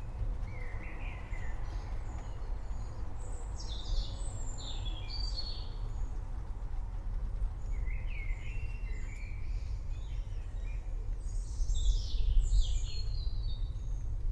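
Birds chirping in short, falling phrases in clusters: about a second in, around four to six seconds, around eight to nine seconds, and again near twelve to thirteen seconds. Under them runs a steady low rumble.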